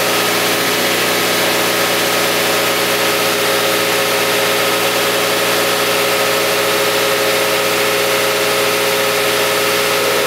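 A 2016 Subaru WRX's 2.0-litre turbocharged flat-four is idling steadily through a catless J-pipe and a Corsa cat-back exhaust, on its first start with a Stage 2 tune.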